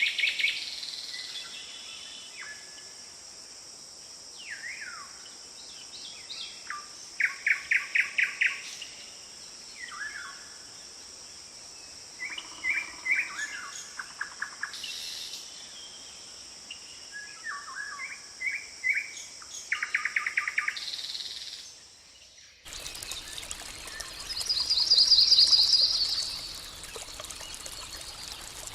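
Wild birds chirping and calling, with several quick series of rapid trilled notes, over a steady high insect drone. About 22 seconds in the recording changes to a noisier one, where the loudest sound is a fast, high trill lasting about two seconds.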